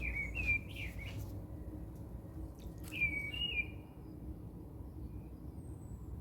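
Bird chirping: two short runs of warbling calls about three seconds apart, over a steady low hum.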